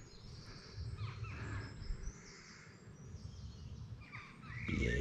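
Small birds chirping and calling in short rising and falling notes over a low rumble of wind or handling noise on the microphone. The rumble swells louder just before the end.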